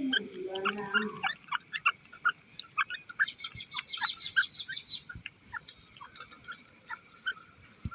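Grey francolin calling: a rapid, dense series of short, sharp, falling notes, with a lower-pitched call in the first second.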